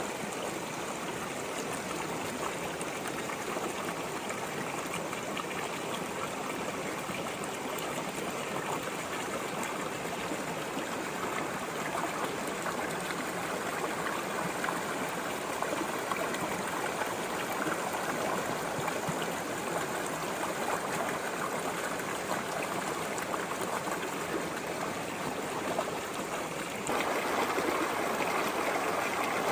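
A small brook flowing: a steady babbling, rushing water sound that gets abruptly louder about 27 seconds in.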